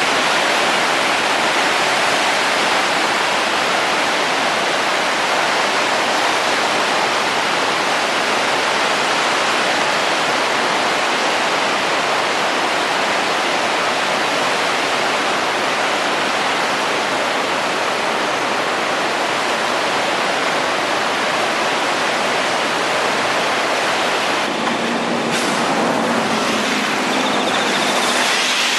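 Loud, steady rushing of a flood-swollen river. A faint low hum joins in near the end.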